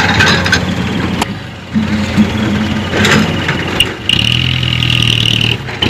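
Light diesel dump truck engine running and pulling, with a few sharp knocks and a high steady whine lasting about a second and a half near the end.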